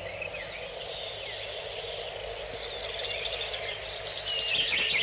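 Small birds chirping and calling in many short, varied notes, busier toward the end, over steady background noise.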